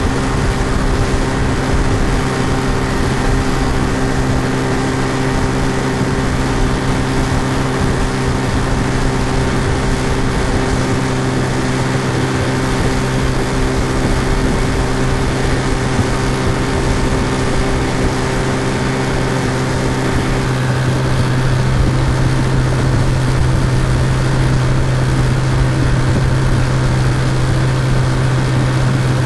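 Looping sound effect of an outboard motor running steadily at cruising speed, standing in for the boat's real sound. About twenty seconds in, the tone changes slightly and the low hum grows a little louder.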